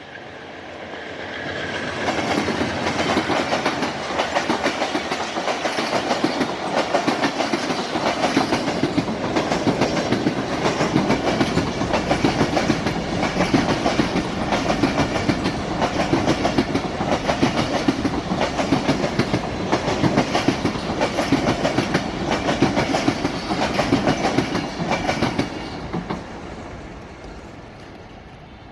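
Passenger train passing, its wheels clattering rapidly and steadily over the rail joints. The sound builds about two seconds in and falls away near the end.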